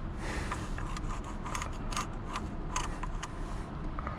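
Scattered small clicks and rattles of a steering-wheel quick-release hub's latch and lock mechanism being worked by hand.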